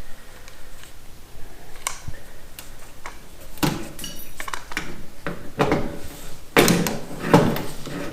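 Metal bodywork tools working on a steel car fender: a few light clicks, then four short, sharp metallic clanks and knocks, with a brief metallic ring between the first two.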